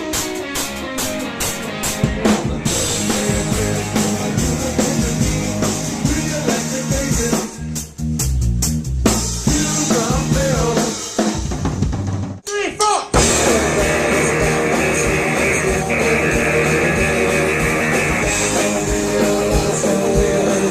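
Live rock band playing a Christmas tune, a drum kit driving the beat under bass and guitar, with a brief break about twelve and a half seconds in.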